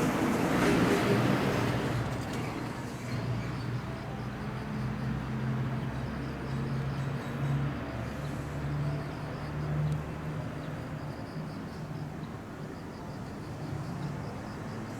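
A vehicle passing, loudest in the first two seconds and then fading, leaving a steady low engine hum in the background.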